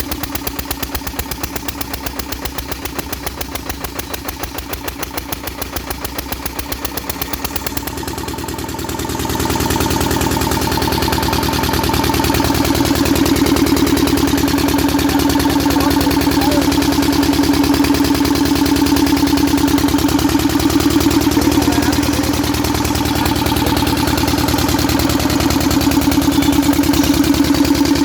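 Kirloskar 8 hp single-cylinder diesel engine running with an even, rapid firing beat. About eight seconds in it grows louder, and a steady hum joins the beat and holds.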